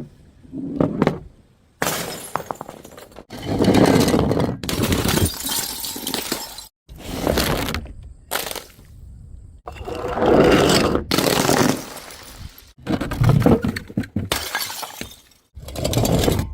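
Glass bottles breaking and shattering, a quick series of separate smashes with abrupt cuts between them.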